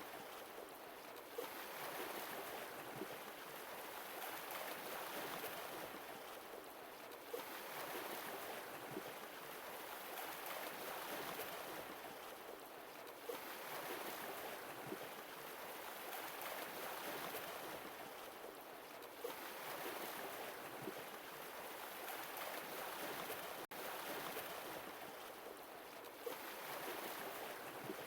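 Sea waves breaking and washing on a shore: a hiss of surf that swells and eases about every six seconds.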